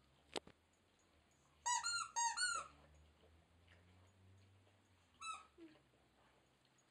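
Rubber squeaky ball toy being squeezed: three quick high squeaks in a row, then one more a few seconds later, each rising and falling in pitch. A single sharp click comes just before them.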